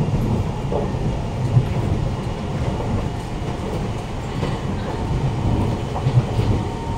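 Siemens C651 MRT train heard from inside the carriage while running on the track: a steady low rumble of wheels and running gear, with a few light clicks.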